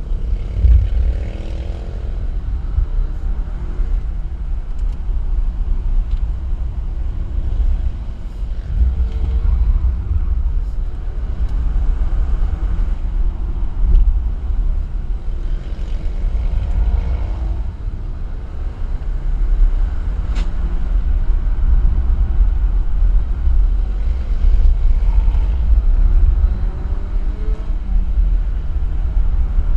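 A vehicle driving on a winding road, with a heavy low rumble of road and wind noise. Faint engine notes rise and fall with changes in revs.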